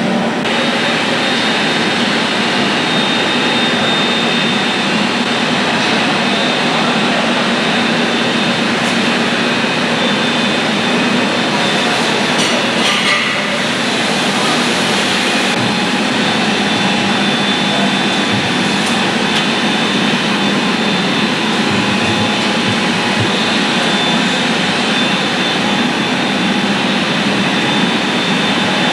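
A heavy engine running steadily, a loud even drone with no change in speed.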